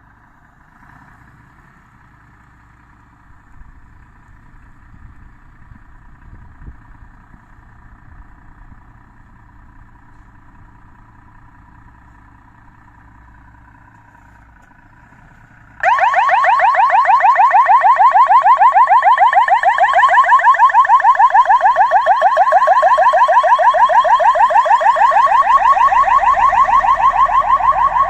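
Fire engine on an emergency run: a faint low engine rumble, then about halfway through the electronic siren switches on suddenly, loud, with a fast repeating warble.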